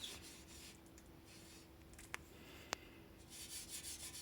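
Faint, soft scratching of a damp sponge loaded with wood ash being rubbed over fireplace door glass, with two small clicks a little past the middle.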